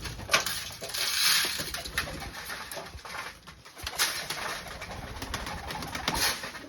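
Domestic pigeons cooing in a small room, among sharp clicks and a rush of rustling noise about a second in.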